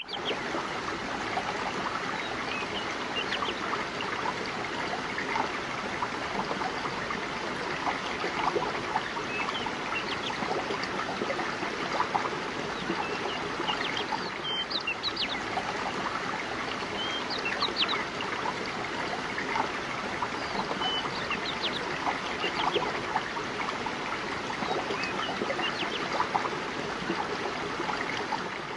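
River water flowing and trickling steadily over stones, with a few short, high bird chirps here and there.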